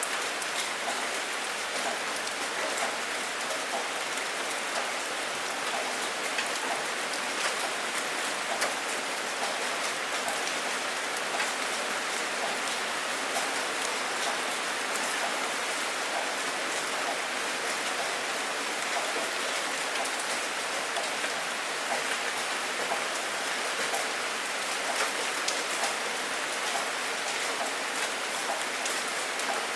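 Steady rain: a dense, even hiss of falling rain with many small drop impacts, unchanging throughout.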